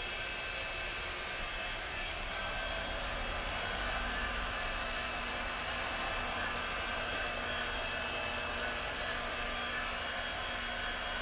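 Electric motor and hydraulic pump of an 8-ton horizontal log splitter running steadily, a continuous even hum with no splitting cracks or strokes.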